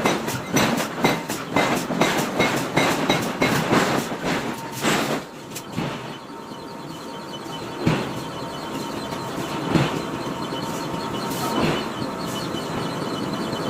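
Forging hammer striking a hot iron block: a fast run of rhythmic blows, about three a second, for the first five seconds, then single blows about two seconds apart over a steady mechanical hum.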